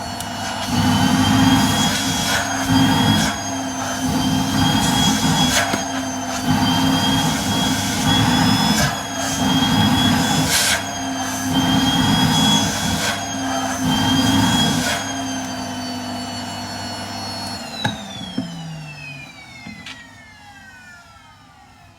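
Vacuum cleaner running with a steady whine, its suction sound surging and easing about every second and a half as the nozzle grips and lets go. Near the end it clicks off and the motor winds down with a falling whine.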